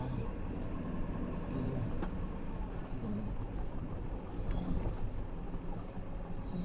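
Ford ambulance camper truck driving slowly, a steady low engine and road rumble heard from inside the cab, with a few short faint high squeaks.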